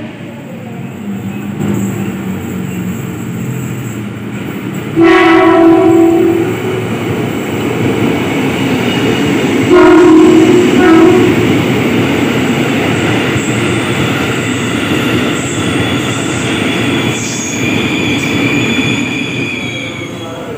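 KRL Commuter Line electric train running into the platform with a steady rumble and clatter of wheels. It sounds two loud horn blasts, one about five seconds in and one about ten seconds in, each lasting about a second, and the second is followed by a short toot. A high squeal rises over the rumble in the later seconds.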